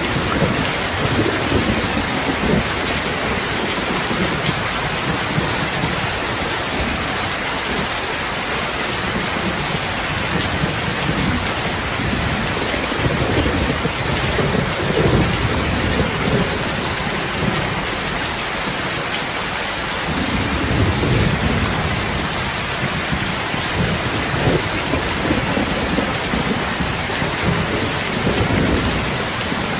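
Heavy, steady rain with low thunder rumbles that swell and fade several times.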